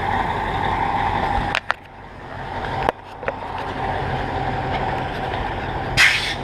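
MAZ truck's diesel engine running steadily. About one and a half seconds in the sound drops away abruptly with a click, then builds back up, with another click around three seconds and a short hiss near the end.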